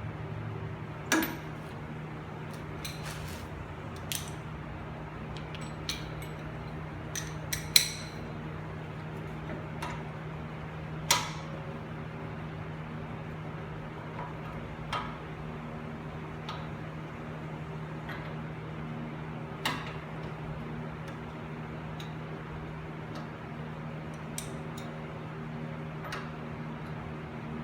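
Scattered sharp metallic clinks and knocks of hand tools, a socket and wrench on metal, as the front hub bolts are tightened by hand, over a steady low hum.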